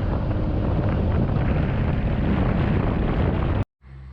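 Honda Forza 350 scooter ridden at speed: wind rushing over the microphone over engine and road noise. It cuts off suddenly near the end, giving way to a quieter steady low hum.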